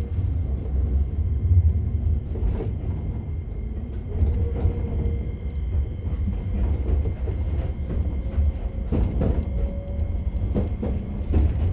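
Enoden electric train running, heard from inside the car: a steady low rumble with scattered clicks and knocks, several close together near the end.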